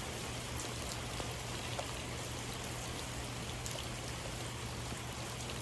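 Steady, even hiss like falling rain, with a low steady hum underneath.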